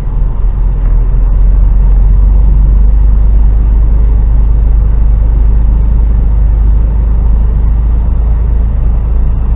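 HGV truck's diesel engine running with a steady low rumble, getting louder about a second in and then holding steady.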